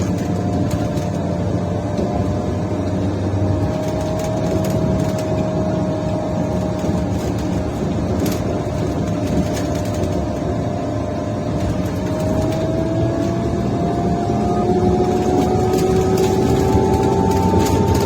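Mercedes-Benz Citaro O530 Ü bus driving, heard on board: a steady engine and drivetrain sound from a bus with a broken exhaust. The tones dip slightly, then climb steadily and get a little louder from about two-thirds of the way through as the bus picks up speed.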